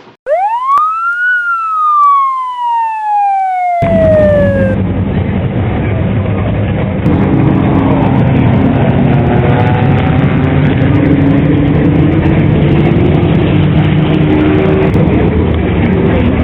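A police siren gives one sharp rising whoop, then falls in a long slow glide over about three seconds. From about four seconds in, a steady vehicle rumble runs with a wavering hum.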